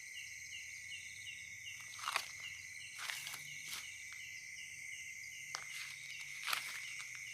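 Night insect chorus of crickets and other insects: a steady high drone, with a chirp repeating about three times a second that stops about five and a half seconds in. A few short scattered knocks, like footsteps or handling, sound over it.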